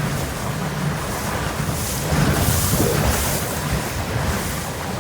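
A motorboat running at speed on open water: a steady low engine hum under rushing water and wind buffeting the microphone, with a louder gust of hiss about halfway through.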